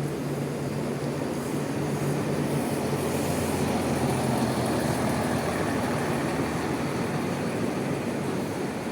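Bus engine running, a steady low hum that drops away about two and a half seconds in while a broad rumble swells to its loudest around four seconds and then eases off.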